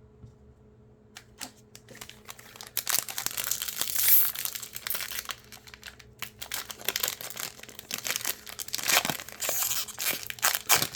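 Plastic packaging crinkling and tearing while trading cards are handled, with a few clicks at first, then dense crackling that peaks twice.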